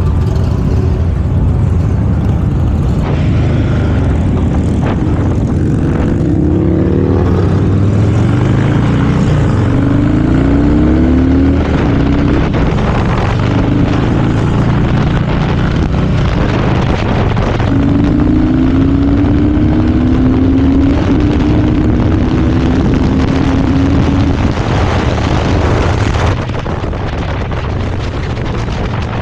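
A vehicle engine running on the road, accelerating twice: its pitch climbs in steps as it goes up through the gears. Steady road and wind noise runs throughout, and the whole thing eases off a little near the end.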